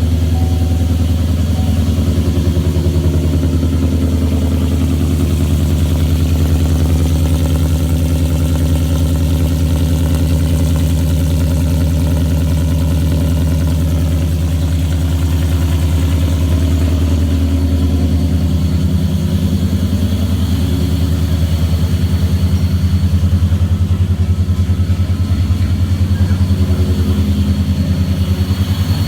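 2014 Chevrolet Silverado's supercharged engine idling steadily after a cold start, through long-tube headers and a catless dual exhaust with a Magnaflow True X muffler.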